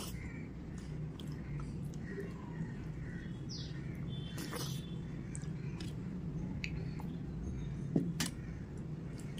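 Eating sounds of khichdi being eaten by hand: soft chewing and wet mouth and lip smacks, with a few sharper clicks, over a steady low hum. Faint bird chirps can be heard in the background.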